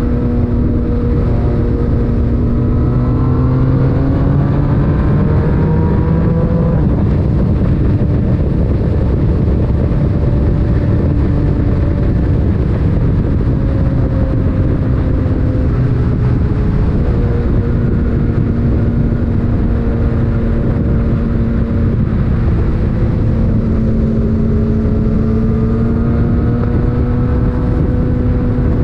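Yamaha MT-09's inline three-cylinder engine running through an aftermarket Akrapovic titanium exhaust on the move, with wind rush. The engine note climbs for several seconds and drops suddenly about seven seconds in, as at an upshift, then holds at a cruise and rises gently again near the end.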